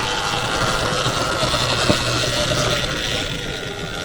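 Sur-Ron Ultra Bee electric dirt bike being ridden on a trail: a steady rush of riding noise with a faint motor hum, and a single sharp click about two seconds in.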